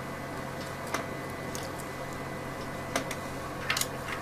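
A few small sharp clicks and taps of a small screwdriver working a screw out of the front of a model locomotive's chassis, over a steady background hum.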